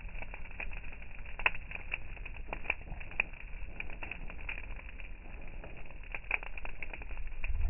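A fire crackling, with many irregular sharp pops and snaps over a low rumble.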